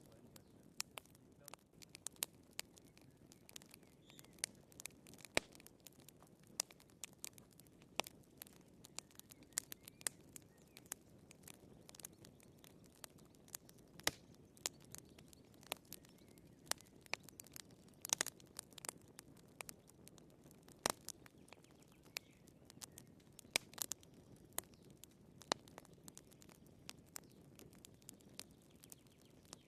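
Wood fire in a fireplace crackling: a low steady hiss of burning with many irregular sharp pops and snaps, a few of them louder.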